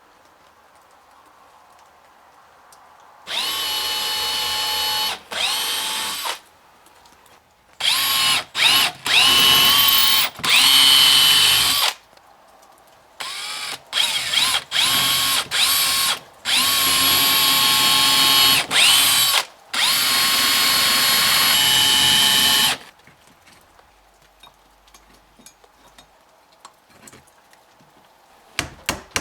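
Electric drill boring hinge-mounting holes in wood, run in a series of bursts over about twenty seconds with short stops between, its whine rising in pitch as the motor spins up each time.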